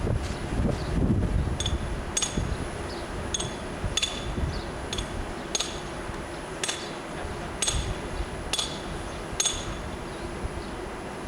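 Small metallic clinks, about ten of them at uneven intervals, each ringing briefly, over a steady low rumble.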